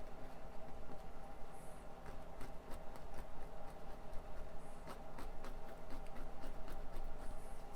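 Paintbrush dabbing and scratching lightly on canvas as oil paint is laid on in short strokes: a run of soft, irregular ticks over a faint steady hum.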